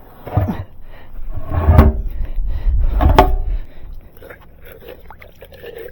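Clattering and handling noise with a low rumble and two sharp knocks, about two and three seconds in, the second ringing briefly; it dies down near the end.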